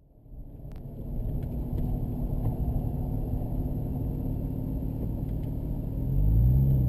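Porsche 996 Turbo's twin-turbo flat-six running at low speed as the car creeps forward, a steady low rumble heard from inside the cabin. About six seconds in the engine note briefly rises and falls as it gets louder.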